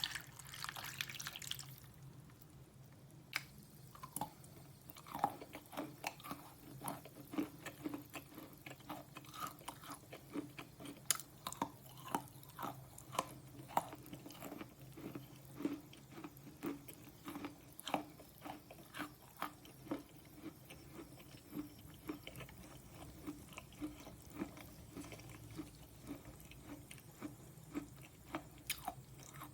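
Slate pencil being chewed close to the microphone: steady rhythmic crunching chews, one or two a second. A short watery hiss fades out in the first two seconds.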